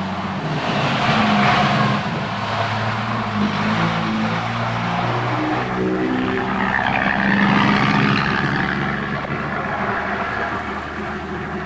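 Big truck driving past close by, its engine note shifting in pitch several times as it goes. It is loudest about a second and a half in and again around seven to eight seconds in.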